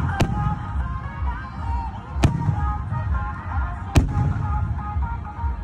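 Fireworks bursting: three sharp bangs, the first just after the start and the others roughly two seconds apart, over music with a melody and a low rumble underneath.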